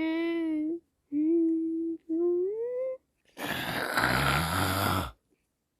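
A high-pitched human voice humming three held notes, the last one gliding upward. It ends with a breathy, rasping noise lasting about two seconds.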